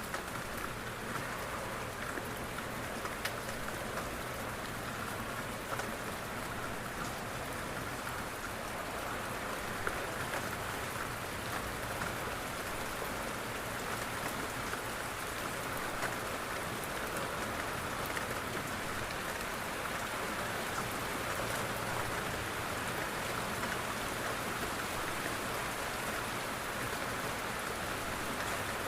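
Steady rain on a window, a continuous hiss with scattered individual drops ticking against the glass.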